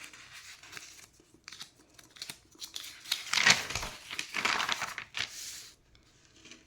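Paper rustling and crinkling in irregular handling noises, loudest in a stretch about three seconds in.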